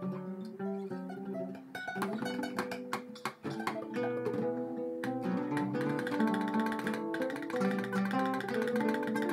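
Instrumental music played on acoustic guitar: a picked melody over chords, growing busier with quick strokes from about two seconds in.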